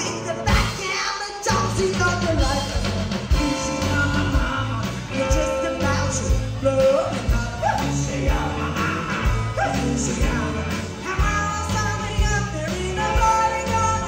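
Rock trio playing live with a sung vocal line over a steady drum and bass beat.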